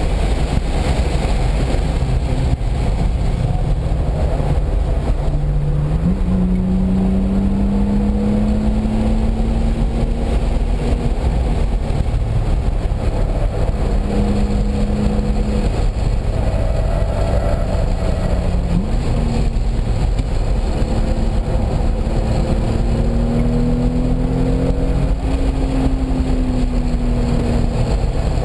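Car engine lapping a race track at speed, its note rising and falling through the corners and jumping up sharply in pitch about six seconds in and again about two-thirds through, over a steady rumble of wind and road noise.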